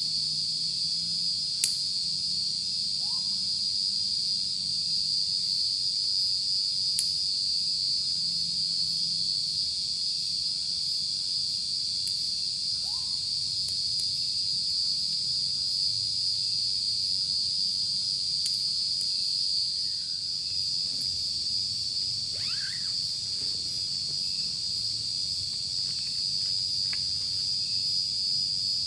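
Steady high-pitched night insect chorus of crickets or cicadas, with a faint low hum beneath it and a few sharp clicks, the loudest about two seconds in.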